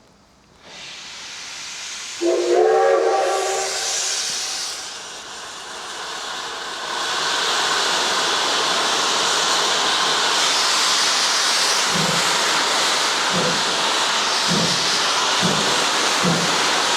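Steam locomotive blowing its whistle about two seconds in, then steam hissing loudly and steadily. From about twelve seconds in, low chuffs begin and come quicker and quicker, the locomotive's exhaust beats as it gets moving.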